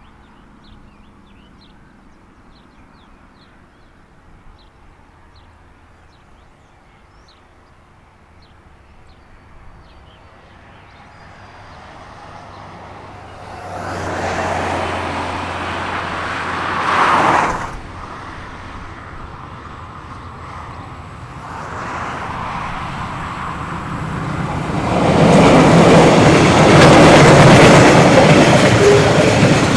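A train passing on the line: faint bird chirps at first, then the train draws near and the locomotive goes by loudly about halfway through, followed by the cars rolling past with wheels clacking, loudest near the end.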